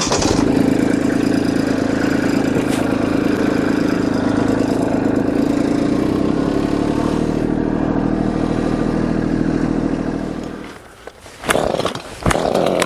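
Kubota LX2610 compact tractor's three-cylinder diesel engine running steadily, then dying away about eleven seconds in, followed by a couple of sharp knocks.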